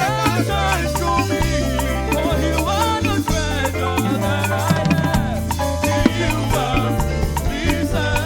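Live gospel band playing upbeat dance-rhythm music, with a steady bass line, percussion and a bending melodic lead over it.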